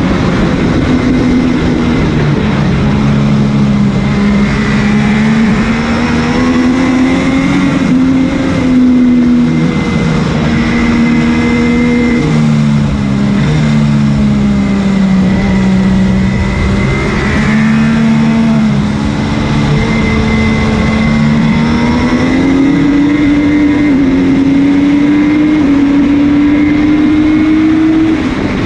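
MV Agusta F3's three-cylinder race engine heard onboard at racing speed, its pitch rising and falling through the gears with sudden steps at the shifts, over loud wind rush. The revs climb steadily through the last third as the bike accelerates hard.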